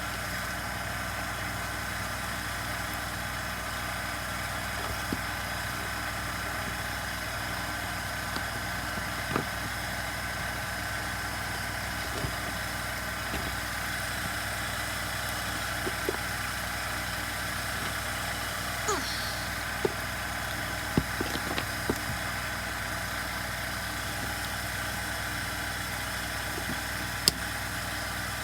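A steady machine hum throughout, with scattered light clicks and taps of chainsaw parts being handled and fitted during reassembly; a couple of sharper clicks near the end.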